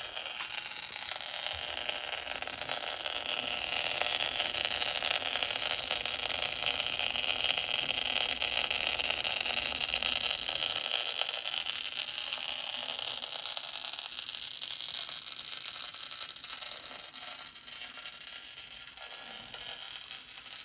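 HO-scale model train running along the track: a steady whirring hiss of motor and wheels on rails that grows louder over the first several seconds, then fades away toward the end.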